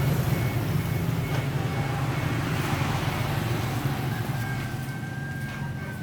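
A vehicle engine running with a steady low drone that slowly fades.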